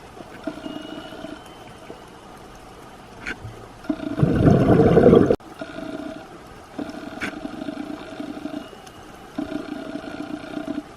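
Unidentified underwater sound: a high-pitched alternating tone that repeats in short phrases of a second or two, each a few steady pitches together, with brief gaps between. Halfway through, a loud burst of bubbling rush drowns it out, typical of a scuba diver's exhaled bubbles.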